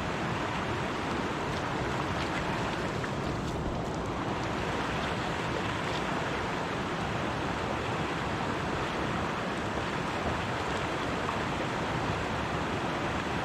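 Mountain creek water rushing over rocks, a steady unbroken rush.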